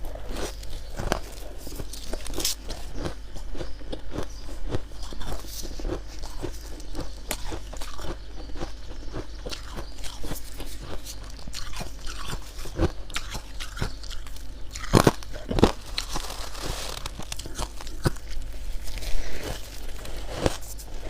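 Close-up biting and chewing of white humidifier frost: a continuous irregular run of soft and hard crunches, with a few louder crunches about 15 and 19 seconds in.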